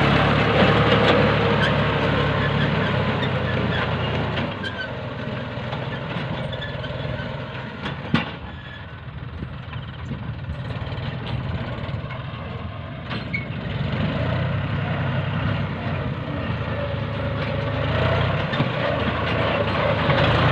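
John Deere tractor engine running steadily while plowing, its level dipping and rising slowly, with a sharp click about eight seconds in.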